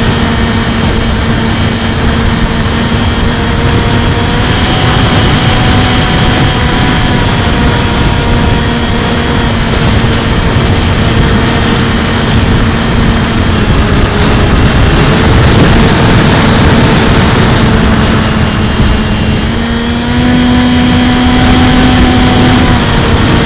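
Electric brushless motor and propeller of a Bixler 2 RC plane whining steadily, the pitch stepping up and down a few times with throttle changes, under heavy wind rush and buffeting on the onboard camera's microphone.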